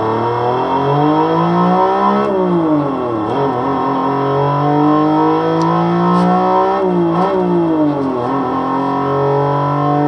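Homemade synthesized engine sound imitating a Toyota 1JZ-GTE inline-six exhaust note, pulling away and accelerating. The pitch rises for about two seconds and falls back, then climbs slowly again until it drops sharply about seven seconds in, like a gear change, and holds steady near the end.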